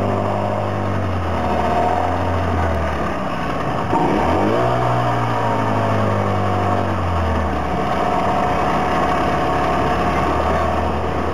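Ferry boat's outboard engine running under way; its pitch drops and climbs again about four seconds in as the throttle is eased and opened, and settles lower near the end.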